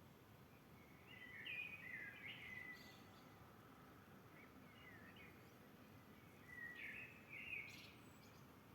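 Faint birdsong over a steady low hiss: a songbird gives two short phrases of quick chirping, warbled notes, one about a second in and another about six and a half seconds in.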